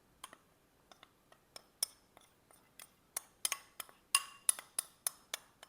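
A spoon clinking and tapping against a bowl while cornstarch is spooned into the flour: scattered light clicks at first, then a quicker run of louder ringing clinks about three seconds in.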